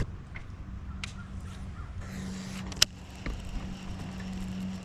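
Crow-like cawing bird calls over a steady low hum, with one sharp click a little under three seconds in.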